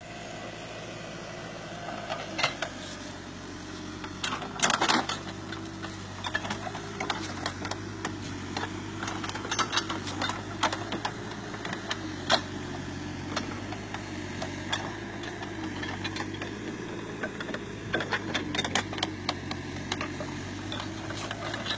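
Backhoe's engine running steadily, with frequent sharp clanks and knocks scattered through it.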